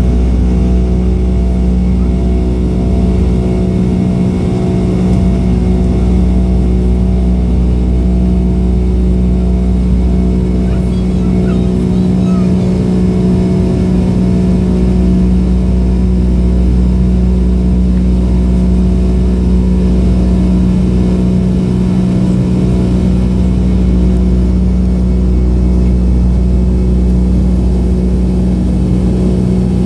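Steady drone of a Boeing 757's Pratt & Whitney PW2037 turbofans heard from inside the cabin during the climb after takeoff. It is a constant hum of several engine tones over a low airflow rumble.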